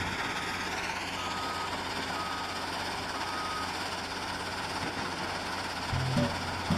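Engine of a construction vehicle running steadily while its reversing alarm beeps four times, about once a second, then stops. Music starts near the end.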